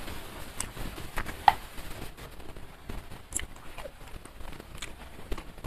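Close-miked eating: wet chewing and mouth sounds with scattered sharp clicks and smacks, the loudest about one and a half seconds in, as food is chewed and picked up by hand.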